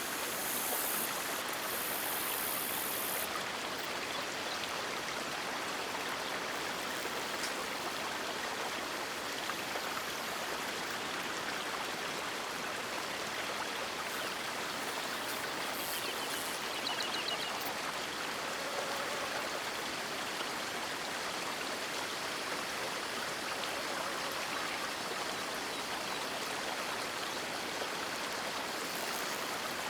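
River water flowing and rushing steadily, an even unbroken wash of water noise.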